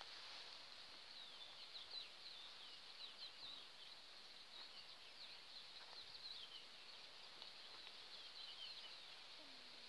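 Faint birdsong: many small birds chirping and twittering in quick, high notes. Near the end a single low, sliding call comes in.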